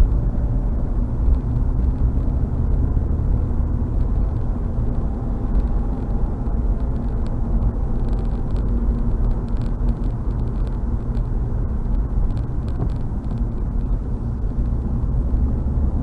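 Steady road and tyre noise of a moving car heard from inside the cabin: a constant low rumble with no changes.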